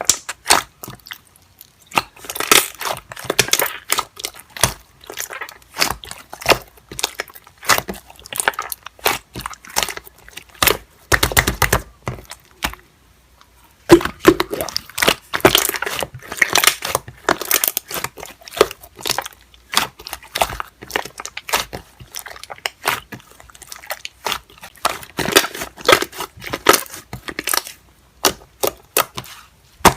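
Slime being squeezed, poked and stretched by hand, giving dense irregular crackling and popping clicks with a few crunches. It stops briefly about a quarter of the way through and again near the middle.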